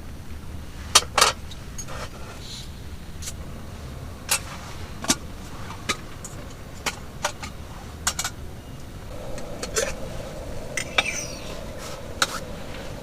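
Scattered clinks and knocks of metal camp cookware being handled, over a steady low background rumble, with a steady hum joining about nine seconds in.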